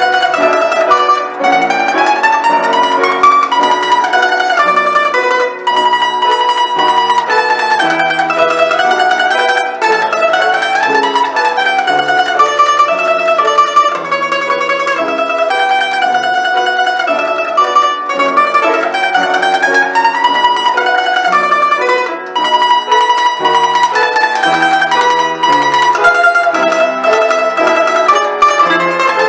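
Russian folk plucked string instrument playing a slow folk-song melody, with tremolo on held notes and runs climbing and falling, over lower accompanying notes.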